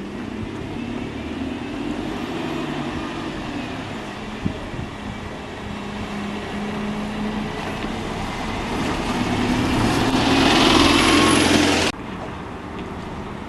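Bus engine running close by, with its pitch stepping as it moves, growing louder to a peak near the end before the sound cuts off abruptly to quieter street background. A single sharp click sounds a few seconds in.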